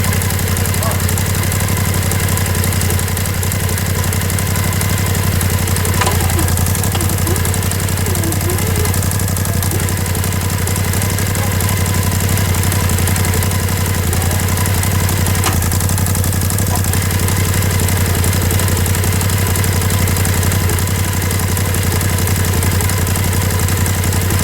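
Off-road vehicle's engine running steadily at a low, even speed, test-run with the vehicle off the ground after a new primary clutch has been fitted to its CVT. A couple of faint clicks can be heard over the running.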